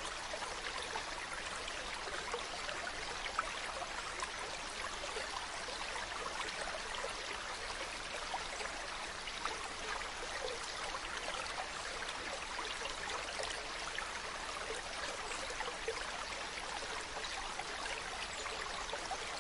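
Mountain stream running steadily over rocks, a continuous rushing and trickling of water with small splashes.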